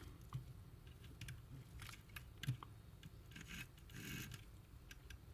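Electric motor of an HO scale model steam locomotive running on the track: a faint, rasping mechanical sound with scattered light clicks. The motor is running dry, with no oil on it.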